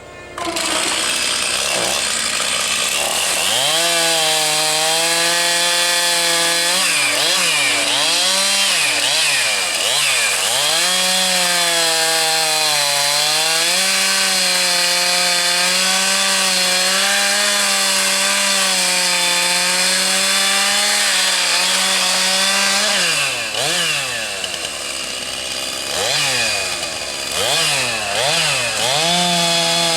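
Two-stroke chainsaw running at high revs, its engine pitch dropping and climbing back again several times during the cutting, clustered in the first half and near the end.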